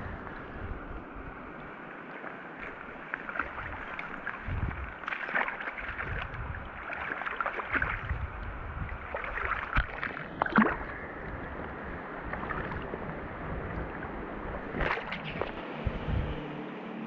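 Stream water running steadily, with a few sudden knocks or splashes, the sharpest about ten seconds in. A low steady hum starts near the end.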